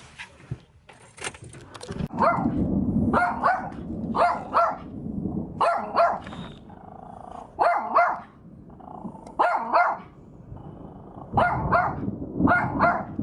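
A dog barking repeatedly, short barks mostly in pairs every one to two seconds, starting about two seconds in, with a low rumble underneath during the first barks.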